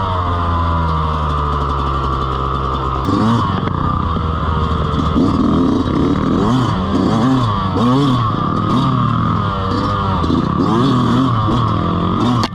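Dirt bike engine running: it holds a steady pitch for about three seconds, then revs up and down repeatedly, the pitch rising and falling about once a second.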